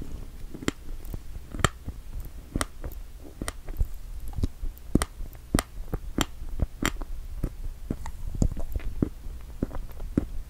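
Close-miked chewing of a mouthful of strawberry and whipped cream, heard as irregular sharp clicks, about one or two a second.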